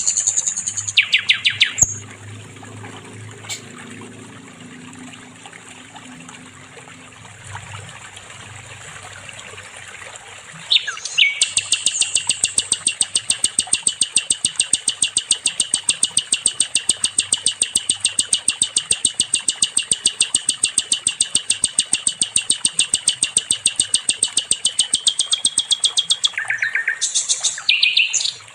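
A songbird labelled sikatan londo singing. Short high phrases open and then stop about two seconds in, leaving a lull. Then comes one long, rapid trill of repeated high notes, about seven a second, held for some fifteen seconds, with a few short phrases near the end.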